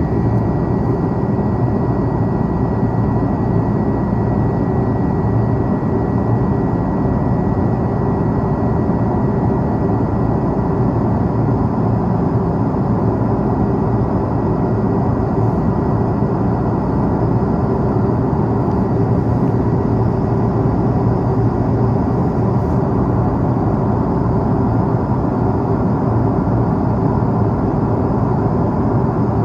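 Steady cabin noise inside an Airbus A330-300 airliner with its engines running: a constant loud rush of engine and airflow noise with a faint steady high whine.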